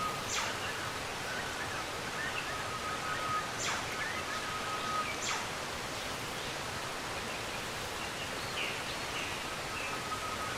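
Outdoor ambience of a steady hiss with birds calling over it: three quick downward-sweeping calls and scattered short chirps, with a thin held high note that comes and goes.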